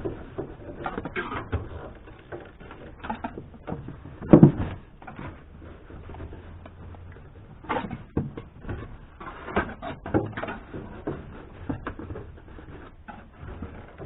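Irregular clicks and knocks of a car's plastic interior trim being pried and handled, with one louder knock about four seconds in.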